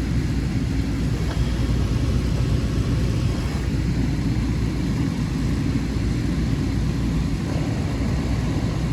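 Walk-in cooler condensing unit running steadily: a constant low compressor hum under the rush of the condenser fan. It is being test-run on R-134a against a warm box.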